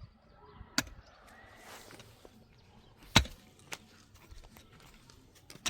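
Four sharp knocks at uneven intervals over a faint outdoor background, the loudest about three seconds in.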